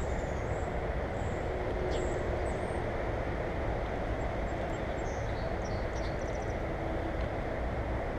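Steady low rumbling noise, with faint, short, high bird chirps now and then over it.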